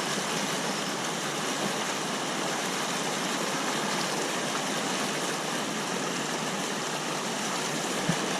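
Creek water rushing steadily over rocks, an even wash of noise that stays the same throughout.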